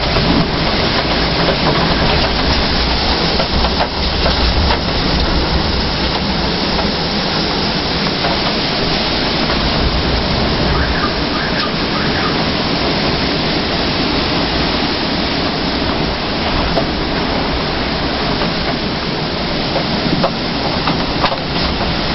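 Hurricane-force typhoon wind blowing hard and steadily with rain, gusting and buffeting the microphone with a heavy low rumble.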